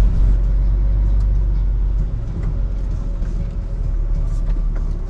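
Lorry's diesel engine running, a steady low rumble.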